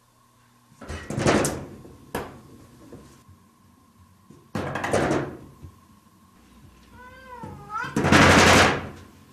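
A domestic cat gives one short meow that bends up and down in pitch, about seven seconds in, among three loud noisy bursts, each about a second long, and a sharp knock just after the first burst. The loudest burst comes right after the meow.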